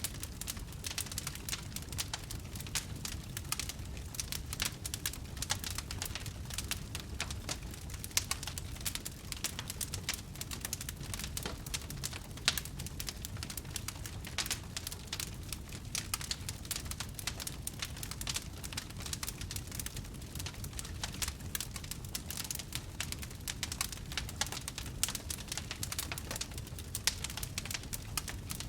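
Wood fire crackling: a dense, irregular run of small snaps and pops, with a few louder pops, over a low steady rumble of burning.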